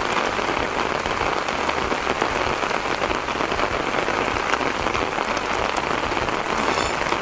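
Heavy rain falling steadily, an even hiss peppered with small drop ticks.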